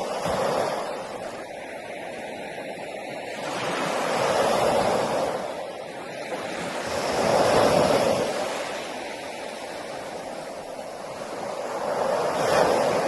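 Sea waves breaking and washing onto a beach, swelling and fading in four surges a few seconds apart.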